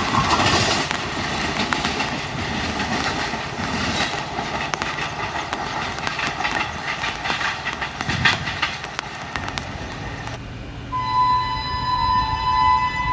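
Wheels of a passing Indian Railways express train clattering over the rail joints as its last coaches recede, with rapid clicks. It cuts off abruptly about ten seconds in, and a train horn then sounds one steady blast of about two seconds.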